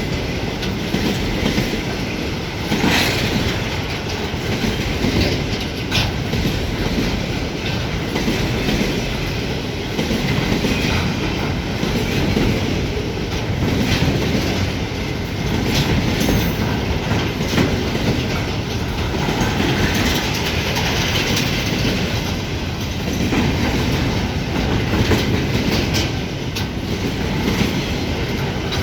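Container flat wagons of a freight train rolling past at speed: a steady rumble of wheels on rail with irregular sharp clicks as the wheels cross rail joints.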